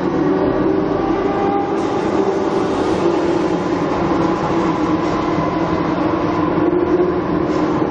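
Steady vehicle running noise with a constant hum, neither rising nor falling in pitch.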